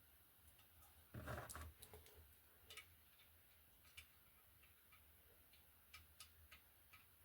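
Faint, sparse metallic clicks of nuts and small metal parts being handled and fitted on the heat exchanger by hand, with a brief rustle about a second in.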